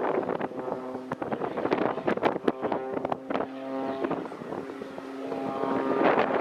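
Aircraft engine droning steadily in the air, growing louder near the end, with wind buffeting the microphone.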